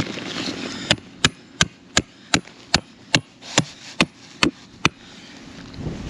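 A dozen quick, evenly spaced knocks, roughly three a second, over wind noise, stopping a little before the end.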